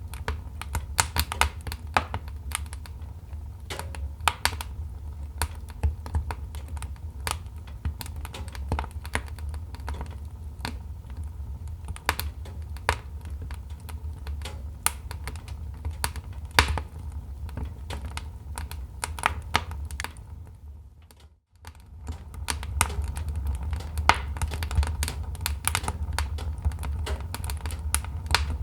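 Wood fire crackling: irregular sharp pops and snaps over a low, steady rumble. About three-quarters of the way through, the sound fades out briefly and then resumes.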